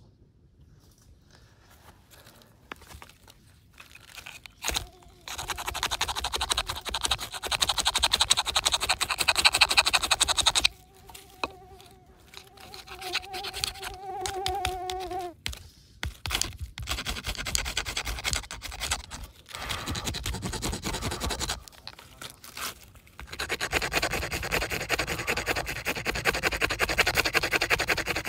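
Friction fire-lighting: wood rubbed hard against wood in several long bursts of fast grinding, with a steady squeal for a few seconds in the middle.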